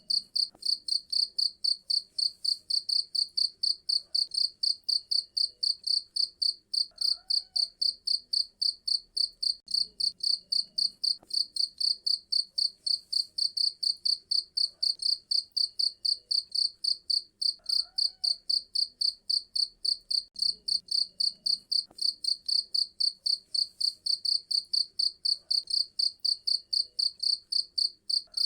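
A cricket chirping in a fast, even rhythm of about five high-pitched pulses a second.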